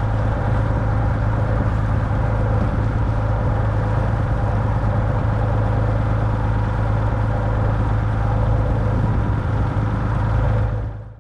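Dutch barge's engine running steadily with a deep even hum, fading out just before the end.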